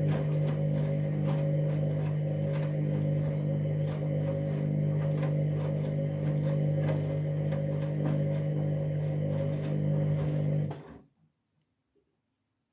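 Candy washing machine humming steadily with a strong mains-pitched drone, then cutting off abruptly near the end.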